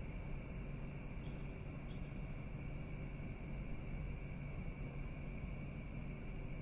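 Outdoor night ambience: a steady chorus of insects, likely crickets, with an even high-pitched shimmer that never breaks, over a constant low rumble.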